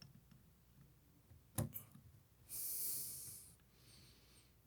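Quiet handling of a toy locomotive: one sharp click about a second and a half in, then a short breath out lasting about a second.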